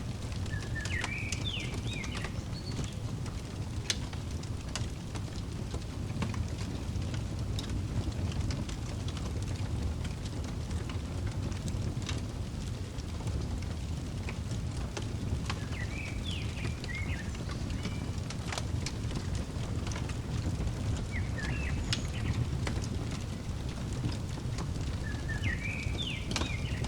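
Fireplace crackling, with scattered sharp pops over a steady low rumble. A bird sings the same short chirping phrase four times over it.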